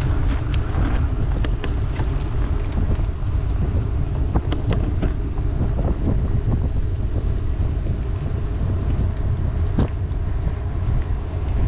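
Wind buffeting the microphone as a steady, loud low rumble, with a scattering of light clicks and ticks over it.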